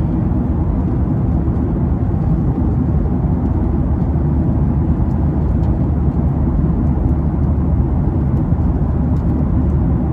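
Airliner cabin noise: a steady low rumble of engines and airflow.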